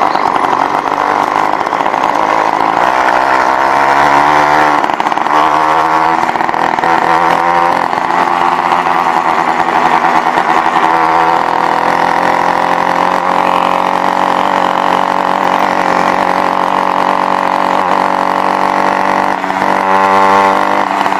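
Motorized bicycle's small kit engine running under way, its note rising and falling as the throttle is opened: it revs up a few seconds in, again a little later, and once more near the end.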